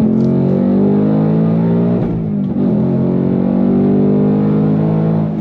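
2024 Ford Mustang Dark Horse's 5.0-litre Coyote V8 pulling hard under throttle. About two seconds in the engine note drops with a gear change, then climbs again as it accelerates through the next gear.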